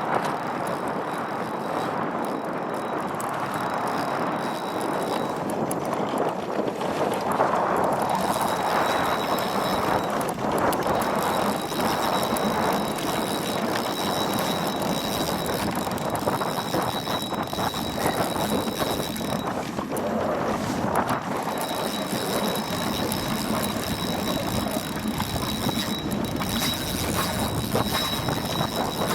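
Spinning reel being cranked as an angler plays a hooked zander, its mechanism ticking under steady wind and water noise, with a thin high whine that breaks off for a few seconds past the middle.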